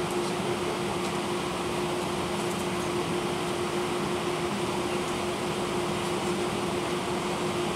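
Airbus A319 cabin noise from a window seat: a steady drone of the IAE V2500 turbofans and air rushing past, with a constant low hum running through it.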